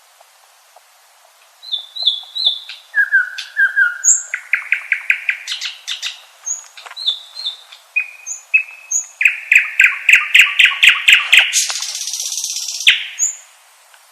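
Common nightingale singing one long song phrase that starts about a second and a half in: short whistled notes repeated in pairs and threes, then fast rapid-fire trills, a harsh buzzy passage near the end, and a final sharp note.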